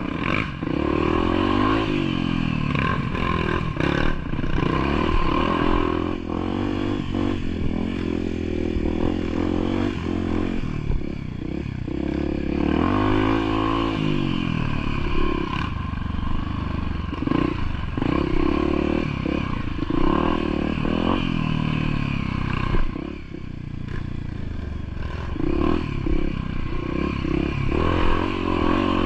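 Engine of an off-road vehicle driven over a rough trail, its revs rising and falling over and over, with clattering and knocks from the bumpy ground.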